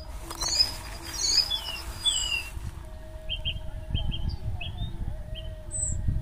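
Small birds chirping: many short, quick calls that slide up or down in pitch, with a low rumble underneath that swells about four seconds in and again near the end.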